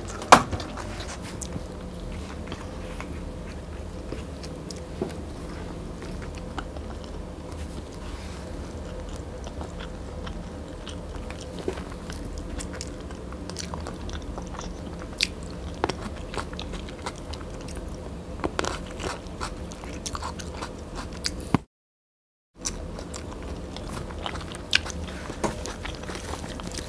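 Close-miked mukbang chewing: soft, tender braised pork belly and rice being chewed, with many small scattered mouth clicks and smacks. The sound cuts out completely for about a second two-thirds of the way through.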